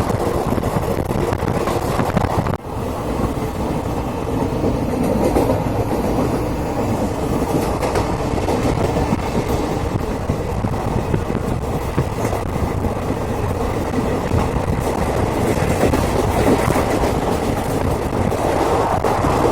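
Passenger train running at speed: a steady rumble of wheels on the track with clickety-clack, heard from on board. It dips briefly about two and a half seconds in and stops abruptly at the end.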